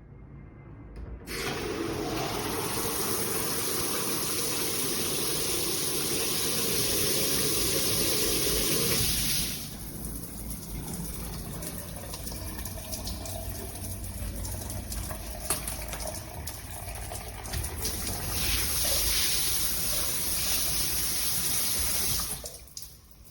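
Water spraying from a rain shower head and handset system. The flow starts about a second in and turns quieter about nine seconds in. It grows louder again near the end, then stops just before the end.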